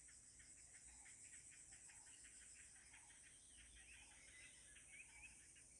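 Near silence with faint insects chirring: a steady high drone and a fast, even run of soft chirps, about five or six a second.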